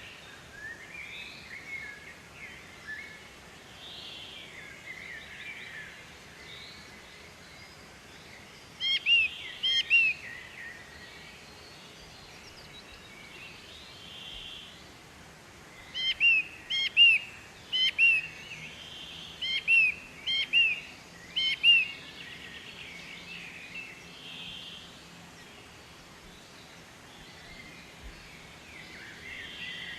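Birds singing and calling. One bird gives loud, short arched notes: a quick group of about three, then a longer run of about eight a few seconds later. Softer chirps from other birds continue in the background.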